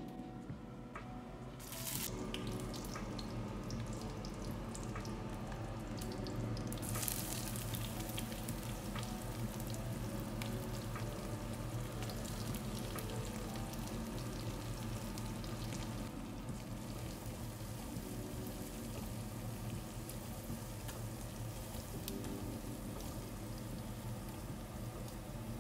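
Chopped onions and dried red chillies sizzling as they fry in hot oil in a stainless steel kadai. The sizzling starts up about two seconds in and grows louder around seven seconds, then carries on steadily.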